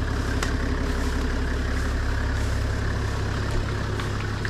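A motor vehicle's engine running steadily with a low drone.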